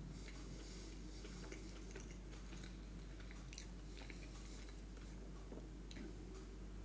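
A person chewing a mouthful of soft stuffed sweet potato with chicken and cheese, mouth closed: faint, soft wet clicks from the mouth over a steady low hum.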